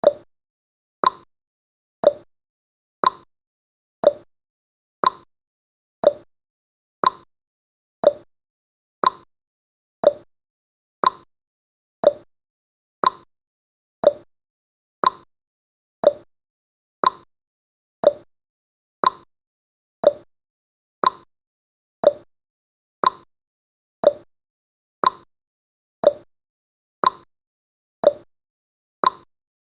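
Clock-like ticking of a countdown timer's sound effect: one short, sharp tick every second, evenly spaced.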